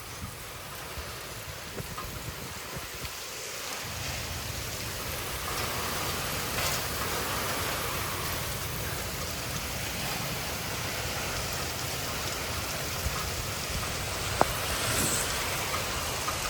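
Heavy thunderstorm rain pouring steadily, with a deeper low rush of wind gusts that builds about four seconds in and keeps up. A single sharp tick near the end.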